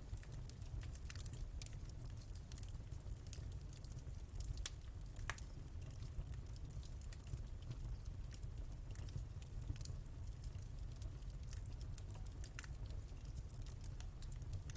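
Wood fire crackling in a fireplace: irregular, closely spaced snaps and pops over a steady low rumble of the burning.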